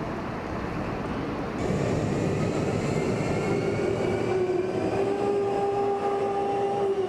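Jet engine noise: a steady rush with whining tones that fall slowly in pitch, louder from about one and a half seconds in and cutting off abruptly at the end.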